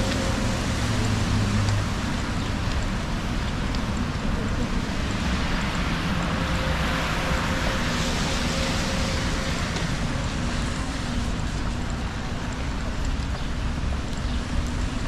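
Wet-street city traffic in the rain: a steady hiss of tyres on wet road with the low hum of engines, swelling briefly about halfway through as a vehicle passes close.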